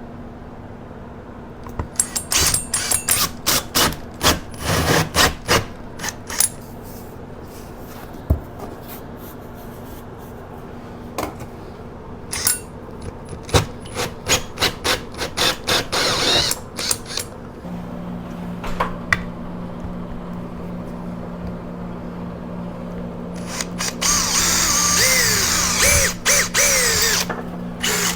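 Scattered sharp knocks and clicks, then a power drill running in bursts near the end, its pitch rising and falling as it speeds up and slows, while the mini-split's wall mounting plate is being fastened.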